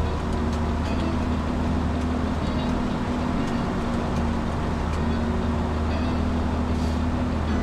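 Steady drone inside a Boeing 737 cockpit: engine and airflow noise, with a constant low hum and a faint steady tone throughout.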